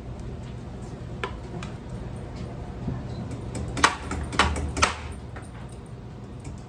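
Sharp clinks and knocks of ceiling fan parts being handled, a few light ones and then three louder ones close together in the middle, over a steady low hum.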